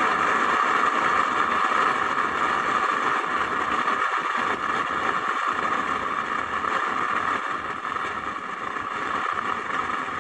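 Steady vehicle engine noise at a street drag race, easing down slowly in loudness.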